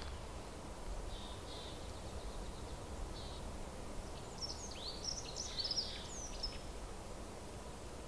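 Wild birds calling in woodland: a few faint high chirps, then a quick run of twittering, swooping notes a little past the middle, over a low, steady background hiss.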